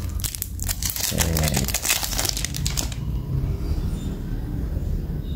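Quick run of clicks and rattles from a Zippo lighter being handled, for about three seconds, then only a steady low hum.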